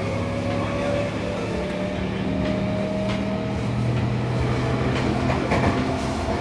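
Running sound of a Seibu 6000 series train heard from inside a motor car: the Toshiba IGBT VVVF inverter and traction motors give a steady hum with a whine that slowly rises in pitch as speed builds. Wheels click over rail joints a few times.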